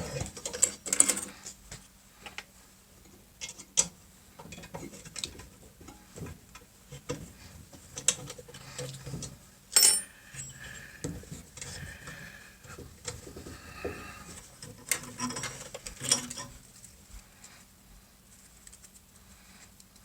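Scattered light clicks, taps and rustles of hand handling, with a few brief squeaks; the small cut plexiglass emblem pieces are being handled and worked free. The sounds thin out in the last few seconds.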